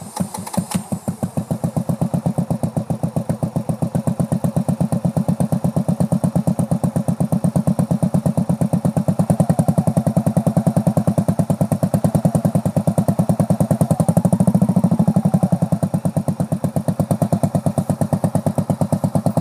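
Motorcycle engine catching at the start and running at low revs with an even pulsing beat, as the learner rider pulls away slowly on a slipping clutch. The revs rise briefly about three-quarters of the way through.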